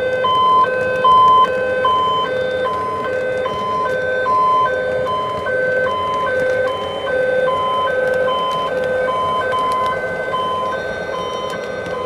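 Electronic emergency-alert tone: short, even beeps about one and a half a second, two pitches alternating, over a steady hum.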